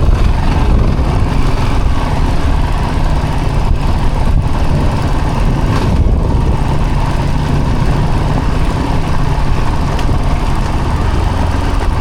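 Off-road vehicle engine running steadily while under way on a rough trail, a continuous low rumble with noise from the ride.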